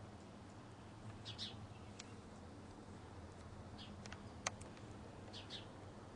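A small bird chirping faintly in short doubled chips, three times about two seconds apart, over a low steady hum. A single sharp click about four and a half seconds in.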